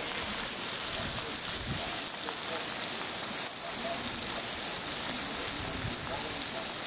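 Heavy rain pouring down, a steady even hiss of rain striking the wet street.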